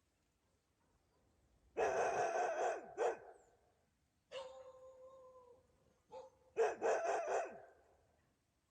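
An animal calling in several short, pulsing bursts, with one longer, steadier call in the middle.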